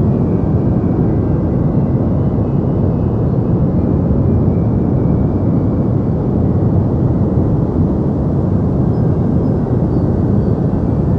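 Steady deep white noise: an unchanging, rumbling hiss with most of its weight in the bass and little treble.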